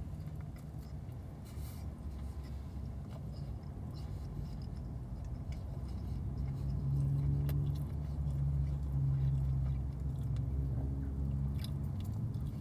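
A person chewing a mouthful of chicken sandwich, with faint wet mouth clicks, over a low steady hum inside a car that grows louder for a few seconds in the middle.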